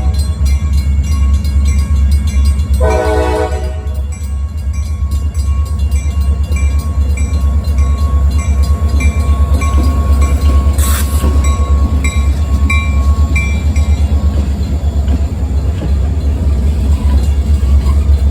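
CSX freight train's diesel locomotives passing with a heavy, steady rumble, and one short horn blast about three seconds in. A faint ringing repeats about twice a second, and there is a single sharp clank about eleven seconds in.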